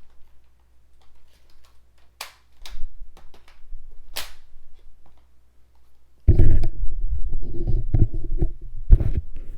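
A few sharp clicks of plastic parts being handled, then from about six seconds in a loud, continuous low rumbling with thumps, typical of a headset microphone rubbing and being knocked while the vacuum parts are fitted.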